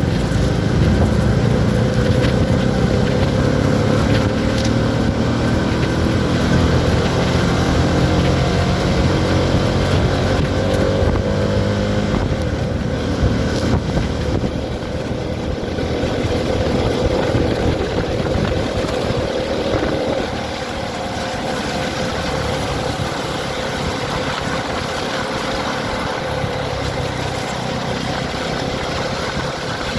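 Motorcycle engine running, with a steady engine note and noise over it; about twenty seconds in it drops to a quieter, steadier note.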